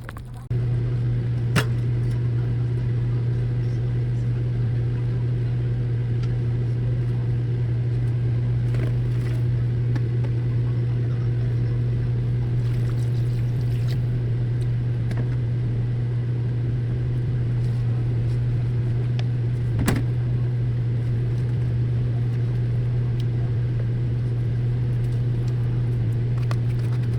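A steady low mechanical hum that switches on suddenly about half a second in and runs evenly, with a single click early on and another about twenty seconds in.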